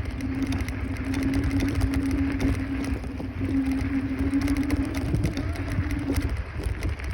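Electric scooter hub motor running with a steady whine under a low rumble of wind on the microphone. The whine stops about six seconds in.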